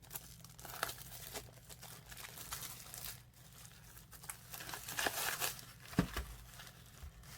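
Crinkling and rustling of a trading-card box's packaging as it is handled, with scattered light clicks and taps.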